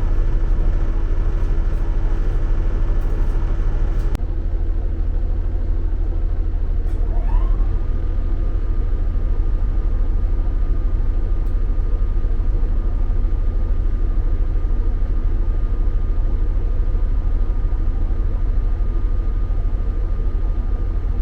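Train running: a steady low rumble throughout. About four seconds in the sound changes abruptly, and a few seconds later a tone glides up and then holds steady.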